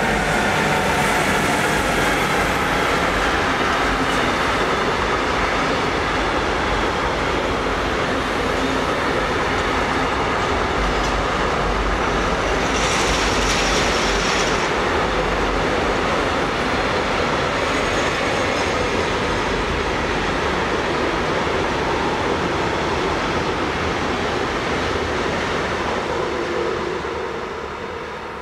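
A train running past on the track, a loud steady rumble of wheels on rails, with a short higher-pitched noise about halfway through, dying away near the end as it moves off.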